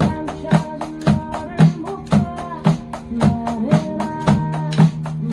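Drum kit played along with a recorded pop-rock song: sharp, regular hits about twice a second over the song's sustained guitar and melody lines.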